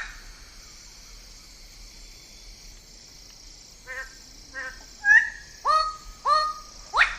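Bird-of-paradise giving loud honking calls: after a quiet start, two short calls, then several louder ones with a held tone, and a sharp rising call near the end.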